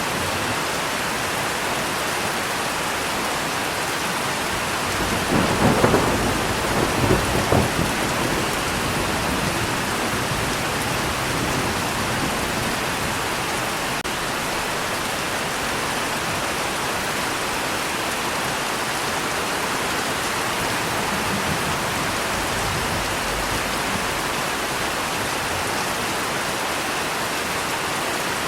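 Steady rain falling, with a roll of thunder rumbling about five seconds in and dying away by eight seconds, and a fainter rumble later.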